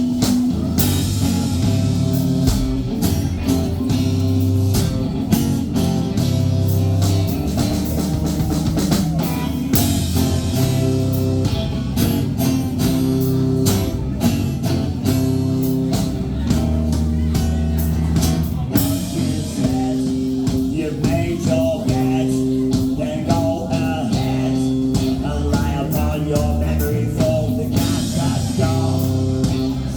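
Rock band playing live: guitar chords over bass and drum kit, with some singing.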